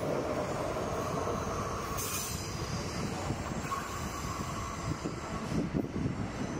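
An ICE train running away along the track just after passing: a steady rumble of wheels on rails that slowly fades, with a faint high wheel squeal over it.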